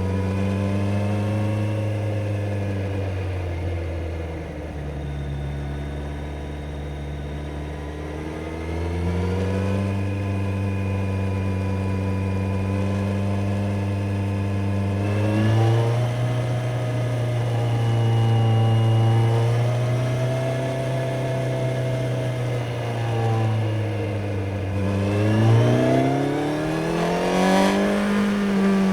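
Kawasaki Z900 inline-four motorcycle engine under way, its note rising and falling with throttle and gear changes, then revving up sharply near the end.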